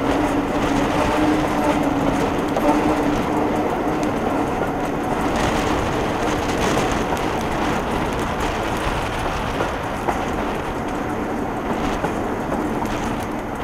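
Passenger train coaches running along the track, heard from on board: a steady rumble of wheels on rail, with a steady hum that fades in the middle and returns near the end.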